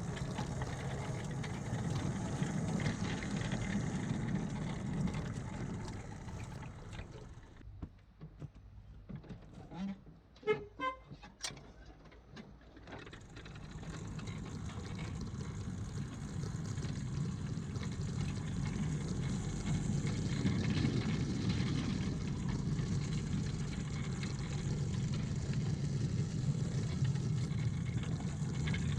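Ride-on miniature railway train running along a 7¼ inch garden line: a steady rumble of the wheels on the track with wind noise on the microphone. It drops away briefly about a third of the way in, where a few short high sounds are heard, then the rumble returns.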